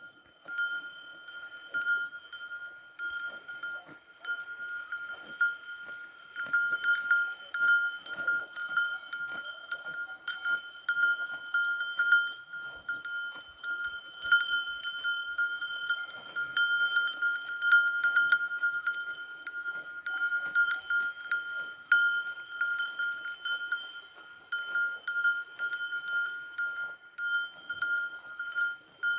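Bells hung on grazing livestock, ringing and clanking continuously with many irregular strikes as the animals move.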